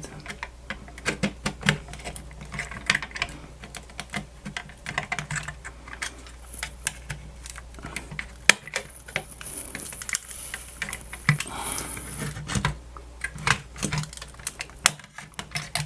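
Irregular small clicks and scrapes from hand tools prying at a small speaker glued into a plastic radio case.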